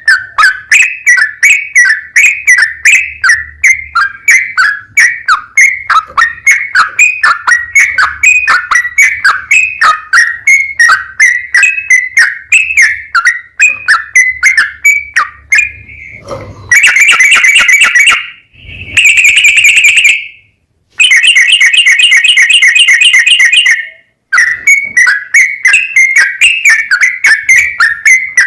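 Yellow-vented bulbul (trucukan) song: a long run of rapid, sharp, repeated chirps. A little past the middle it breaks into a fast trill, a short clear whistle and another fast trill, with two abrupt cuts to silence, before the chirping resumes.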